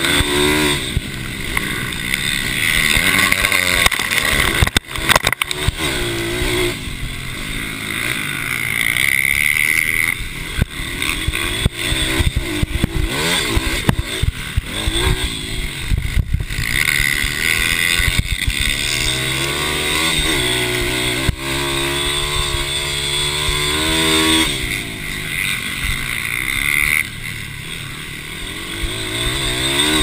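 Mini motorcycle racing engines revving hard, the pitch climbing and dropping again and again as the bikes accelerate and shift or brake around the track.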